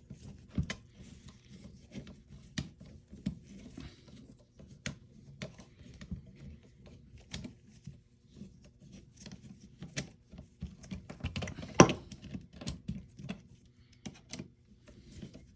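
Irregular light clicks and taps of a flathead screwdriver and small metal parts being handled while the side screws of an airsoft rifle's front handguard are taken out, with one louder knock about three quarters of the way through.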